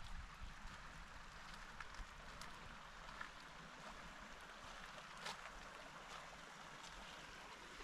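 Faint, steady rushing outdoor ambience, such as a distant stream or wind in the trees, with a few soft footsteps and small ticks.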